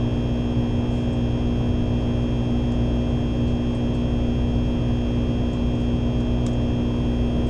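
Steady running noise of a Shinkansen bullet train heard inside the passenger cabin: a low rumble with a steady hum.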